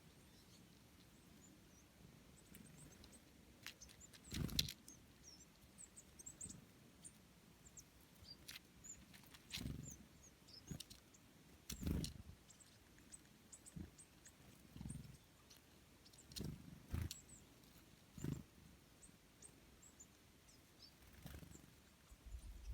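Faint, scattered high chirps of small birds, with brief low rumbles and knocks breaking in every second or few.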